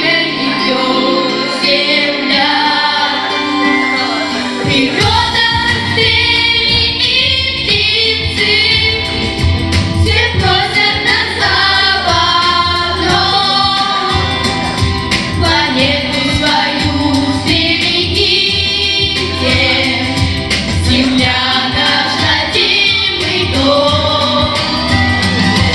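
Vocal group singing a song together over instrumental accompaniment; a bass line comes in about five seconds in.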